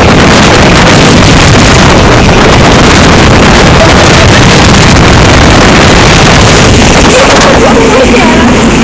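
Hurricane simulator booth blowing a strong, steady blast of air that buffets the microphone: a loud, even rush of wind noise.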